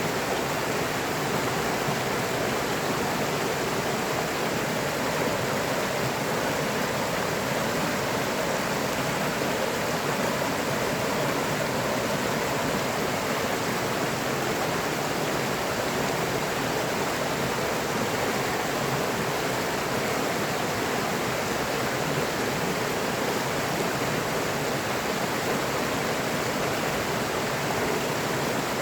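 Steady rushing of flowing river water, an even, unbroken sound without distinct splashes.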